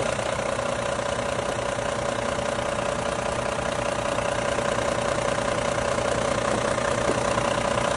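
Iveco AS440ST truck's diesel engine idling steadily, with a constant whine over the running.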